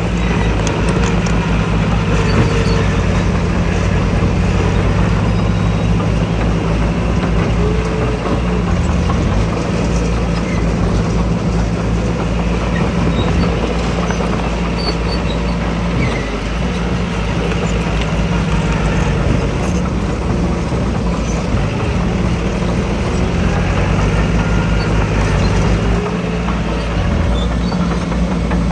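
Diesel engine of heavy earthmoving machinery running steadily under load, its pitch shifting every few seconds over a constant rumble.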